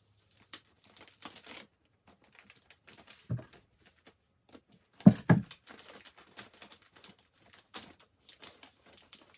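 Ribbon rustling and crinkling in the hands as a small bow is made, with soft knocks about three and five seconds in.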